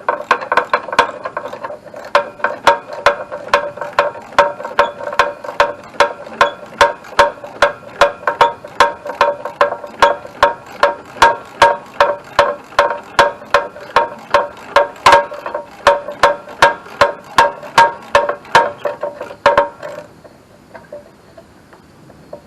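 Ratchet wrench clicking in a steady rhythm, about two to three clicks a second, each with a metallic ring, as a freshly loosened starter bolt is backed out; the clicking stops about twenty seconds in.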